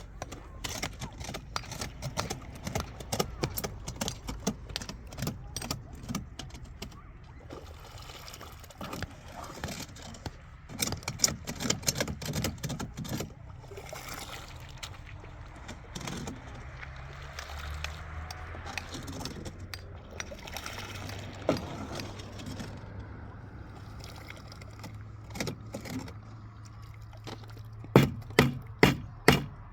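Irregular clinks and knocks of hard objects being handled during building work. Near the end comes a quick run of five sharp, loud blows. A steady low hum runs underneath in the second half.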